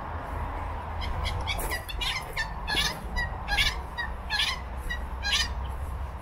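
A wild bird calling a run of short, sharp notes, roughly one or two a second, starting about a second in and stopping shortly before the end, over a steady low background rumble.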